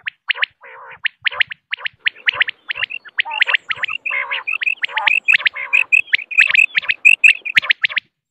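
Female common quail calling: a quick, dense run of short sharp chirps mixed with lower raspy notes, packing closer together through the middle and stopping abruptly near the end.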